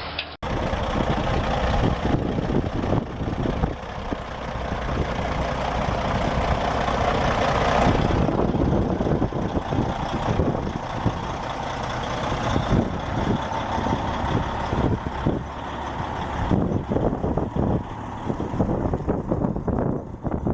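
Heavy dump truck running, with continuous rattling and many short clanks and knocks.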